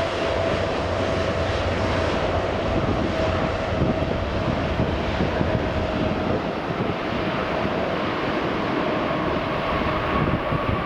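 Jet airliner engines running: a steady rushing noise with a whine that drifts slightly lower, and a second, higher whine coming in near the end.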